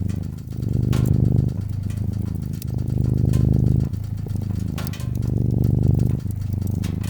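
Domestic cat purring, a continuous low rumble that swells and eases with each breath, about every two seconds. Sharp crackles and pops of a fireplace fire break in a few times.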